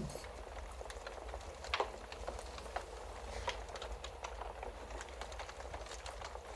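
Wood fire crackling in a fireplace: a steady hiss with scattered sharp pops and snaps, the loudest a little under two seconds in, over a low steady hum.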